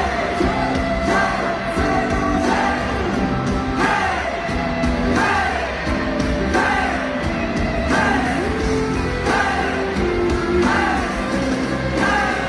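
Live pop-rock concert music playing loudly, with singing and yells from the crowd over it. A falling vocal-like glide repeats about every second and a half.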